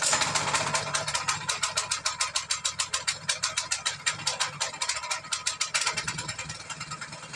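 Small tractor engine running with a fast, even clatter of about six or seven knocks a second, easing slightly near the end.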